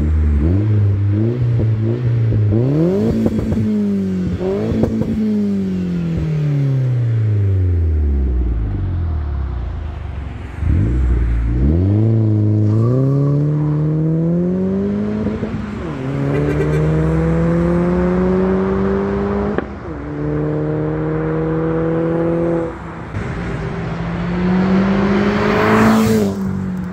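Mitsubishi Colt Ralliart's 1.5-litre turbocharged four-cylinder engine through its exhaust: a few revs rising and falling, then a long fall in pitch. Later it accelerates hard through the gears, the note climbing and then dropping at each of about four shifts, and the car passes close by near the end, loudest as it goes past, its pitch falling after.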